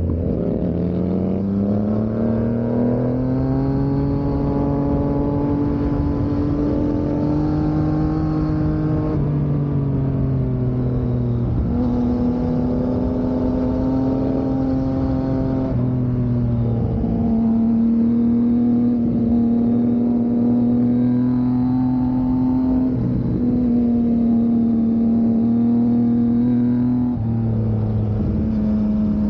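Yamaha MT motorcycle engine running under throttle on an uphill ride. The note climbs over the first few seconds, then holds fairly steady, dipping and picking up again about five times.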